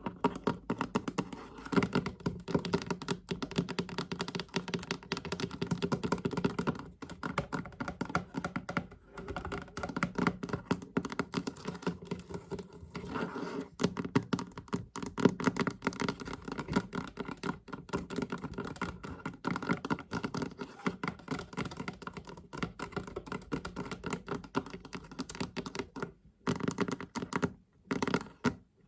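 Fast tapping on a chest: a dense, unbroken run of quick taps over a steady ring from the chest, breaking off briefly twice near the end.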